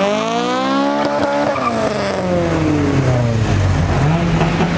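A car engine revving hard: the pitch climbs for about a second and a half, then drops back and settles into a lower, steady note.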